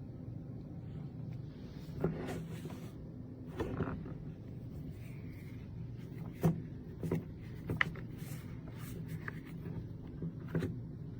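Several separate light knocks and clicks of objects being handled, over a steady low hum.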